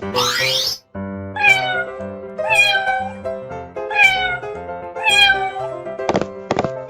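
A cat meowing four times, each call falling in pitch, over light background music. It is preceded by a short rising whistle-like sweep.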